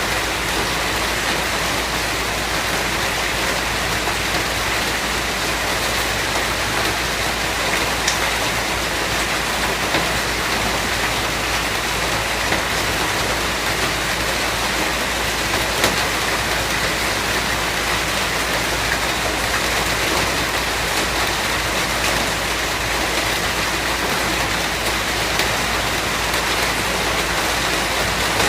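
Steady heavy rain, an even hiss of falling rain with occasional louder individual drops ticking on a surface.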